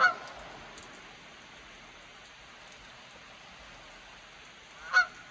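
Steady rain falling, with two short, loud pitched calls cutting through it, one at the very start and one near the end.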